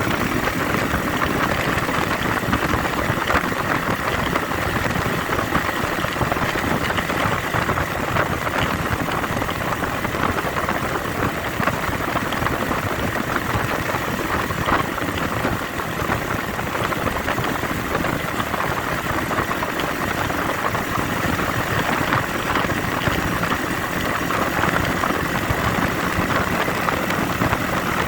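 IZh Jupiter 5 motorcycle fitted with a Chinese 300 cc engine, running steadily while being ridden, its engine blended with a dense rushing noise that holds an even level.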